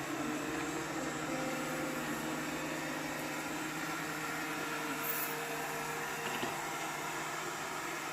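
Robot vacuum cleaner running with a steady hum from its motor and brushes.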